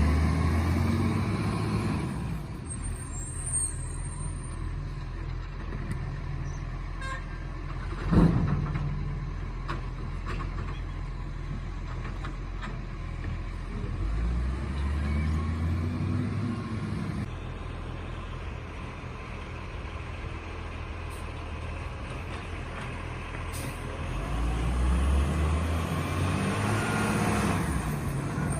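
Garbage truck engine running, revving up and settling back three times, with one sharp loud bang about eight seconds in.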